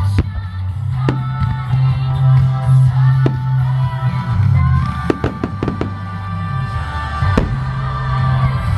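Fireworks shells bursting in sharp cracks: a few single bangs, then a quick cluster of several about five seconds in. They sound over loud music with a heavy held bass line.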